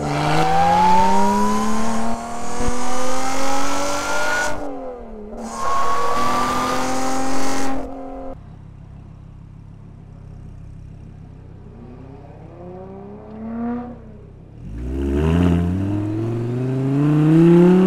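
A high-revving sports-car engine accelerating hard, its pitch climbing, with a brief dip in revs about four and a half seconds in before it pulls again. A quieter stretch of low, steady running with faint rises and falls follows. Near the end the Audi R8's V10 pulls away, its pitch rising.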